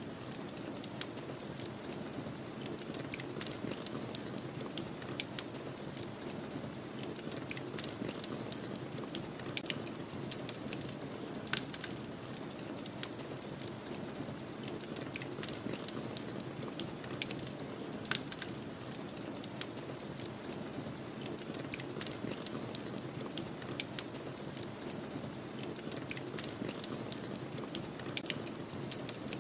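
Wood fire crackling, with frequent irregular sharp pops and snaps, over a steady low rush of snowstorm wind.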